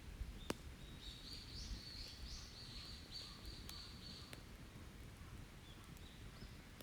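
A songbird singing a high, warbling phrase for about three seconds, with a short call again near the end, over a few sharp pops from a wood campfire.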